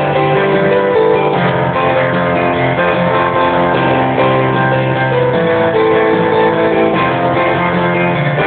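Guitar played continuously, a riff of sustained chords and notes changing every second or so, in a jazzy rock style. The recording is rough and low-fidelity, with no treble.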